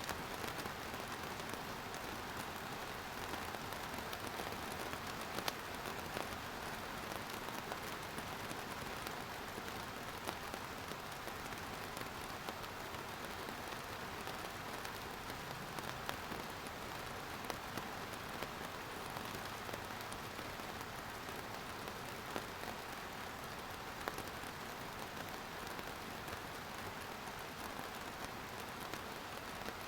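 Steady rain falling, an even hiss with scattered sharper drop ticks hitting a surface.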